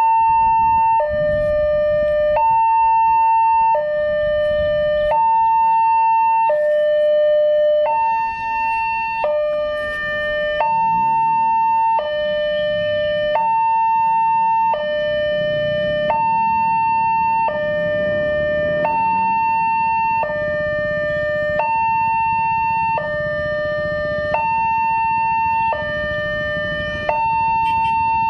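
Railway level-crossing warning alarm sounding: an electronic two-tone signal that alternates a higher and a lower tone, each held for about a second and a quarter, repeating steadily while the crossing is closed for an approaching train. A low rumble runs underneath.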